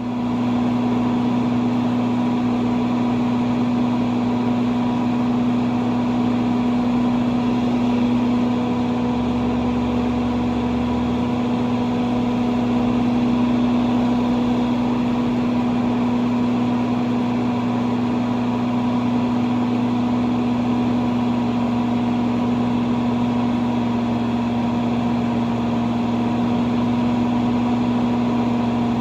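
Farm machinery, a tractor engine and the equipment it drives, running steadily at constant speed with a strong, even hum.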